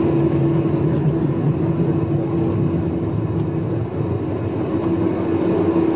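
Boeing 747-400 cabin noise: a steady engine hum and rumble heard from inside the cabin, with a steady mid-pitched tone that fades in the middle and comes back near the end.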